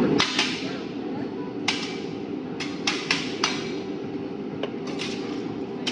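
About a dozen sharp knocks at irregular intervals over a steady low hum.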